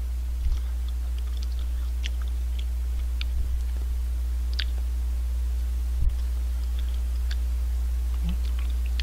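Mouth sounds of a person chewing a bite of a chewy milk ice bar: scattered small wet clicks and smacks, with three soft low bumps, the loudest about six seconds in. A steady low electrical hum runs underneath.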